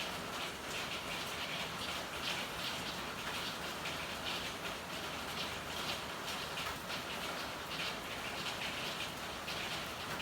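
Steady rain falling: an even hiss with an irregular patter of drops running through it.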